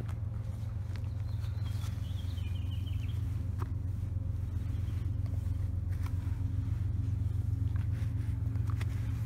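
Steady low hum of a nearby car engine idling, with a short high chirping about two seconds in and a few faint clicks.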